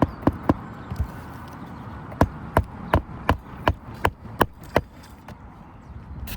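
Hammer strikes on roofing shingles during a shingle repair: a few blows in the first second, then a steady run of about eight at roughly three a second, each a sharp knock with a short metallic ring.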